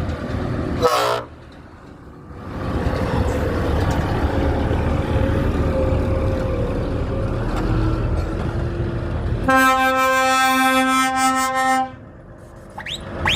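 A truck rumbles past with a short sharp burst about a second in. Near the end its horn sounds one long, steady note for about two and a half seconds.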